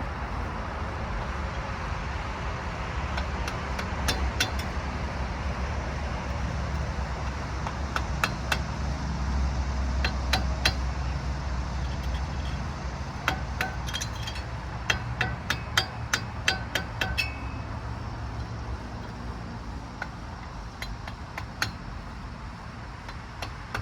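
Scattered sharp metal clinks and taps, in small clusters, from tools working a CV axle loose from a pickup's front end, over a steady low rumble.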